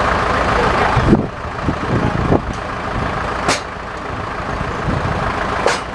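A heavy engine running steadily, with a broad hiss over the first second that cuts off suddenly. A few dull knocks follow, then two sharp clicks, one just past the middle and one near the end.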